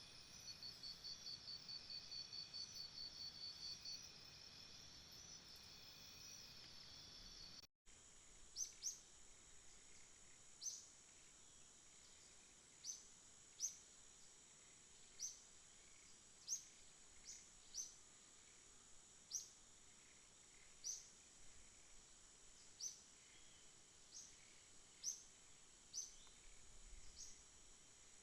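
Faint jungle ambience of insects: steady high trilling and a fast pulsing trill, which cuts off abruptly about eight seconds in. A different recording follows: a steady high insect drone with a short, rising chirp call repeated about once a second.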